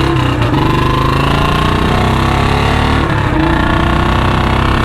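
Royal Enfield Standard 350's single-cylinder engine pulled hard through the gears on an aftermarket C-bend header and long Punjab exhaust, loud and screaming. Its pitch climbs, drops at a break about three seconds in, then climbs again.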